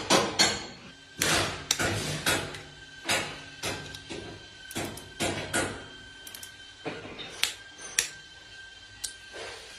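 A series of sharp knocks, fast at first, then slowing to single strikes spaced a second or more apart, with a faint steady tone ringing under the middle of it.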